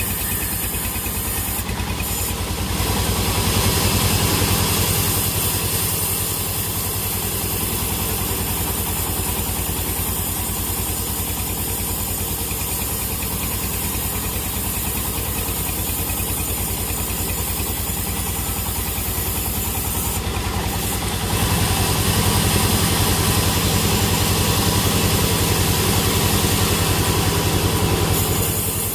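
Sawmill machinery running with a steady engine drone and a fast, even pulse. It gets louder twice: for a few seconds near the start, and for several seconds from about two-thirds of the way in.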